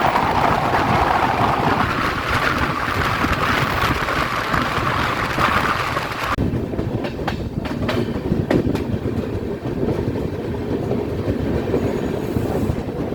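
Moving passenger train: steady rolling rumble with wheels clattering over rail joints. About six seconds in the sound changes suddenly, losing its high hiss, and a few sharp clacks follow.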